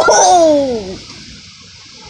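A child's drawn-out exclamation falling in pitch, which fades after about a second into a steady hiss of storm wind and rain.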